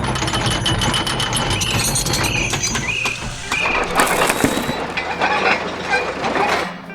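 Machinery sound effects: dense mechanical clattering and ratcheting with short squeaks, over a low engine hum that fades about halfway through.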